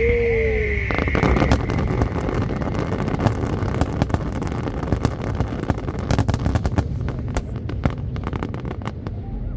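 Fireworks going off in a rapid, dense volley of bangs and crackles, starting about a second in and thinning out near the end.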